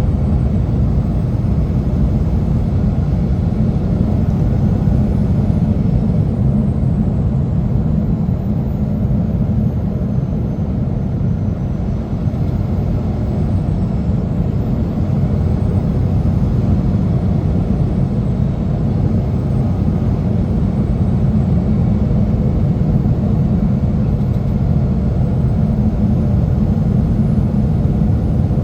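Semi truck running steadily on the road: a continuous low engine and road rumble with no changes.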